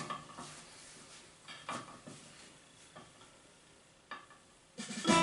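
A few faint clicks and small knocks over a quiet room, then the backing track comes in just before the end with keyboard and guitar.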